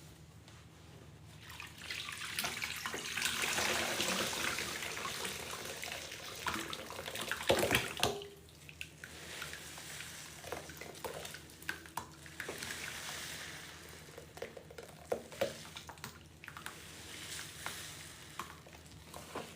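Tap water running onto a sponge in a sink as it is rinsed of pine cleaner paste, a steady rush that peaks and stops about eight seconds in. After that come softer squelches, splashes and drips as the wet sponge is squeezed.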